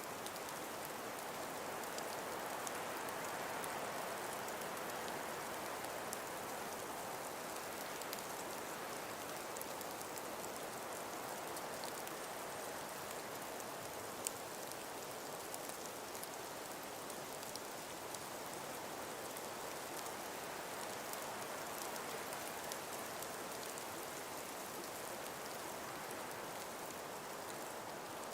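A calm breeze through frost-covered forest trees: a soft, even hiss that swells slightly a few seconds in, with faint scattered ticks and one sharper tick about halfway through.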